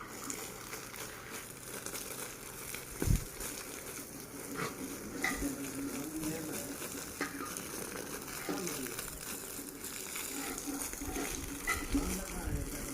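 Steady hiss of spraying water with some splashing, and a thump about three seconds in.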